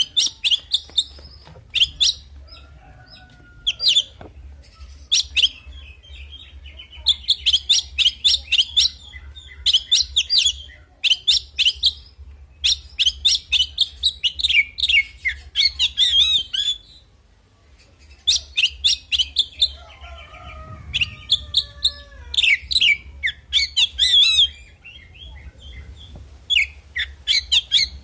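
Oriental magpie-robin (kacer) singing its fighting song: bursts of fast, varied high chirps and whistled phrases broken by short pauses, with one longer pause about two-thirds of the way through.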